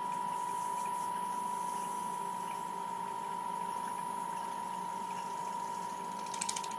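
Wood lathe running steadily with a constant whine, with a brief fast high rattle near the end.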